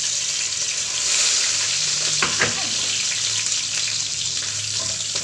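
Chopped garlic sizzling in hot oil in a wok, a steady hiss, with a low steady hum underneath and a brief sharp sound about two seconds in.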